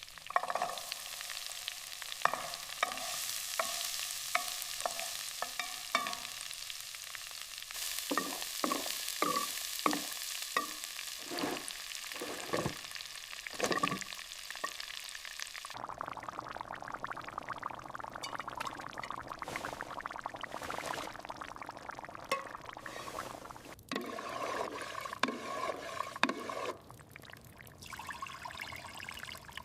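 Food cooking: a steady sizzle with frequent light taps of utensils, which gives way abruptly about halfway to a denser crackling stir of a pot.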